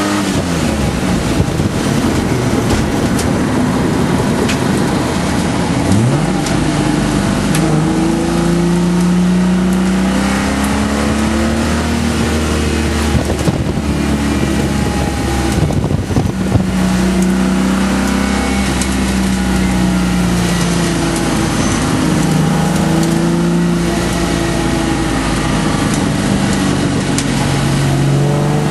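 Holden VP Commodore's 3.8-litre V6 engine heard from inside the cabin while being driven hard on a race track, the engine note rising and falling repeatedly as the car accelerates and slows.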